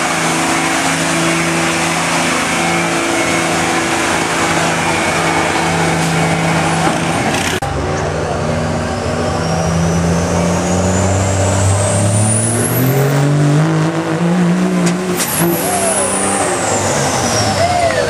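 Diesel pickup truck engine running hard under load on a pull, its pitch climbing steadily. A high turbo whistle rises with it, then falls away near the end as the engine lets off.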